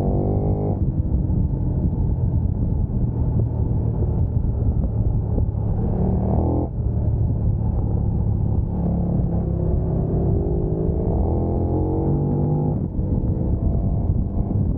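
A sport motorcycle's engine pulls hard through the gears. Its pitch climbs steadily and drops sharply at upshifts about a second in, near seven seconds and near thirteen seconds, over a steady low rumble.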